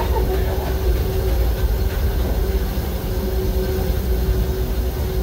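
Narrow-gauge passenger train rolling along the track, heard from aboard an open-air coach: a steady low rumble with a constant faint hum above it.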